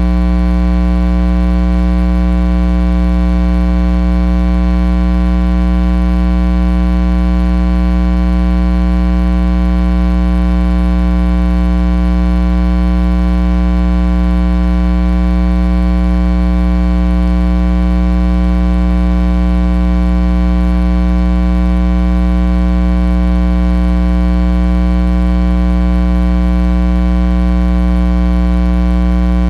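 Loud, steady electrical mains hum: an unchanging buzz with a deep fundamental and a stack of overtones, with no other sound over it.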